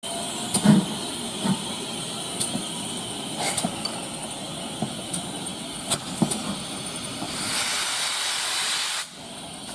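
Steam locomotive standing with a steady hiss of steam and scattered metallic clanks and knocks. The hiss swells for a second or so near the end before the sound cuts to a quieter scene.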